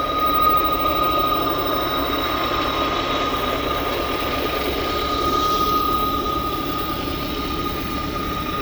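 Loaded freight train rolling slowly past, a steady rumble of cars on the rails with a steady high-pitched squeal riding over it.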